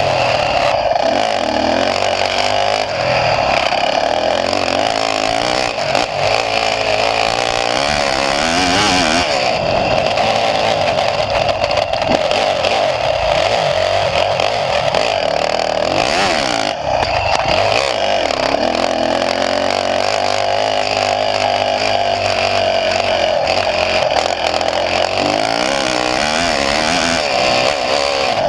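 Dirt bike engine heard onboard, its revs rising and falling continuously under throttle, with brief dips about six seconds in and again near seventeen seconds.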